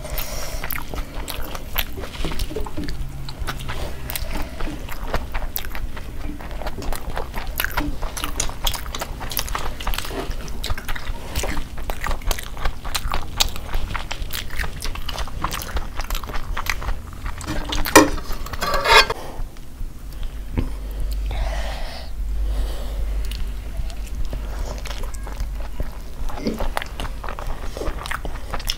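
Close-miked eating: two people chewing and biting food by hand, with frequent wet clicking mouth sounds and crunchy bites. A brief cluster of louder sharp sounds comes about two-thirds of the way through.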